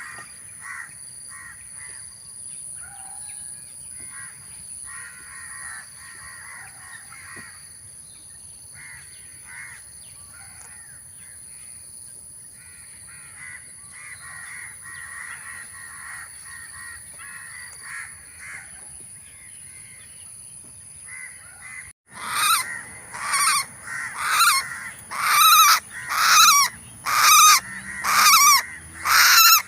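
Wild birds chattering faintly over a steady high-pitched whine, then, after a cut about 22 seconds in, a bird giving loud, harsh, repeated squawks about once a second.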